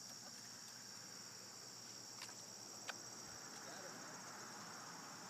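A steady, faint, high-pitched chorus of insects. Two small clicks come a little past the middle.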